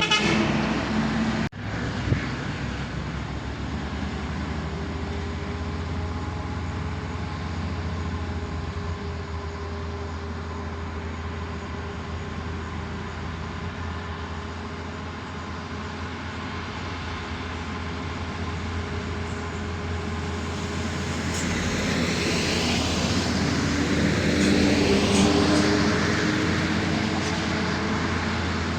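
Heavy diesel truck engines running on a steep hill climb, a steady low hum with held engine tones. In the last third a vehicle grows louder with shifting pitch, then eases off near the end.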